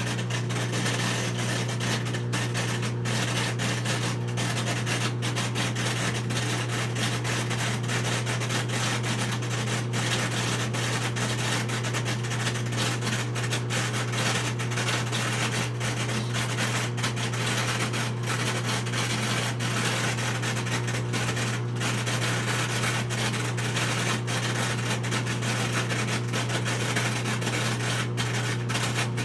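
Whirlpool front-load washing machine running with a steady low hum under a constant rough hiss. This is the abnormal noise it makes during its spin and drain cycle.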